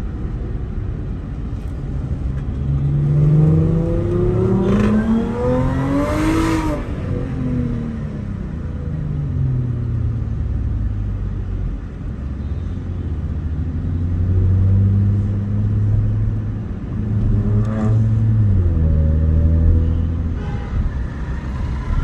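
Supercharged V6 of a tuned Audi A6 C7 accelerating hard. The engine note climbs steadily for about four seconds, then drops away and runs steady, and near the end it climbs briefly once more before falling again.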